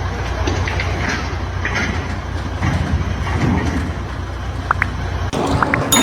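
A steady, low mechanical rumble from heavy machinery, with scattered clicks and a few short squeaks.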